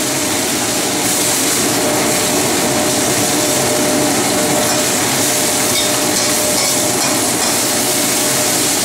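Choy sum sizzling steadily in a hot oiled wok, with a metal spatula stirring and scraping the greens against the pan.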